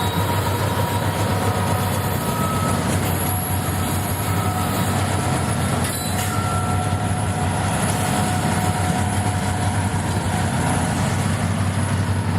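Cars of a freight ballast train rolling past, a steady heavy rumble with a faint, thin wheel squeal above it.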